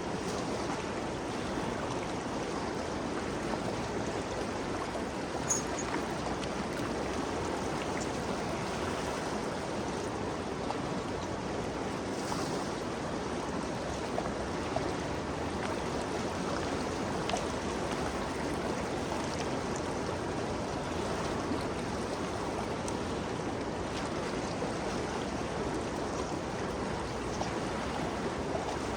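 Ganges River flowing: a steady rush of moving water, with a few faint splashes and ticks scattered through it.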